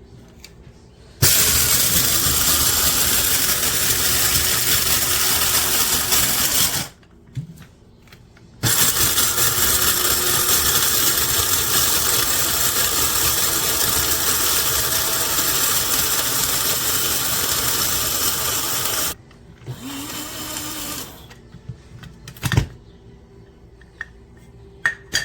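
Wancle electric blade coffee grinder running, its motor and blades whirring at high speed, in two long runs of about six and ten seconds, followed by a shorter, quieter burst and a couple of sharp clicks near the end.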